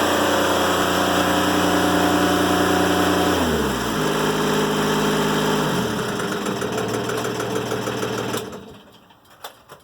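Timberking 1400 sawmill's engine running steadily, then slowing in two steps about three and a half and six seconds in, and stopping about eight seconds in as the cut ends. A few light clicks follow.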